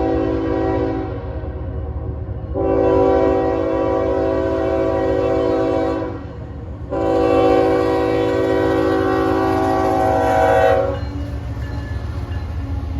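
Locomotive air horn sounding a chord of several notes: a blast that ends about a second in, then two long blasts of three to four seconds each, over a steady low rumble of the moving train.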